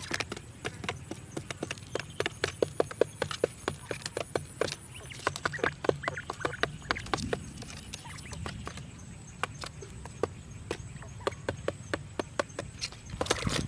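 Many sharp, irregular taps and clicks, several a second, over a low steady background hum, with a quick flurry of them near the end.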